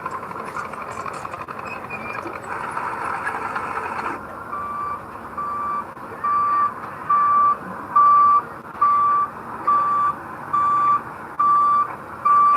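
Heavy machinery running, then a reverse-warning alarm on an earthmoving machine that starts about four seconds in. It beeps steadily about once a second on a single high pitch, growing louder over the first few beeps.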